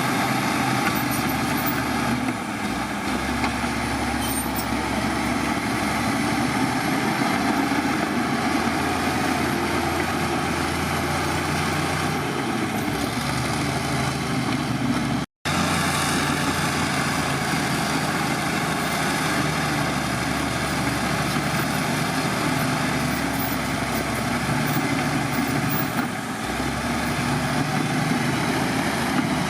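Heavy diesel earthmoving machinery running steadily, with its engine note shifting about two seconds in and again near the end. All sound cuts out for a moment about halfway through.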